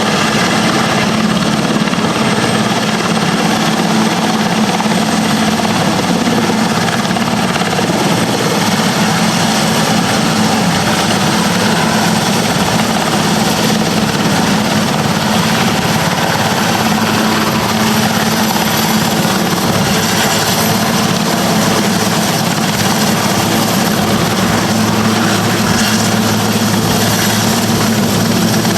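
Marine One, the presidential helicopter, running loud and steady overhead as it comes in.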